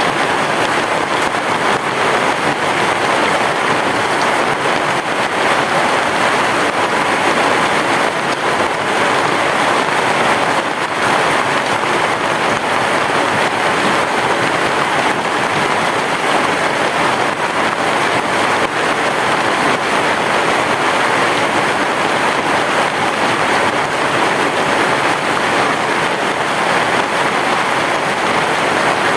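Heavy rain falling steadily on a roof, a dense, even hiss with no thunder in it.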